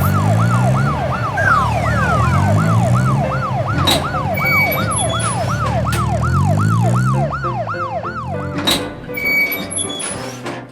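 Cartoon emergency-vehicle siren sound effect, a fast wail going up and down about two and a half times a second, over a low engine hum. A few sharp clicks with bright chiming tones sound in the middle and near the end, and the siren stops about eight and a half seconds in.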